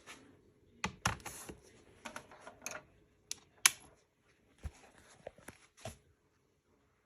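Irregular clicks and taps of fingers on a MacBook Pro laptop's keys and case, with one sharper click a little past halfway. The clicks stop about a second before the end.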